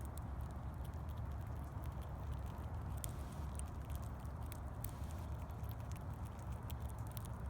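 Squirrel gnawing and nibbling at its food: irregular small, sharp clicks over a steady low rumble.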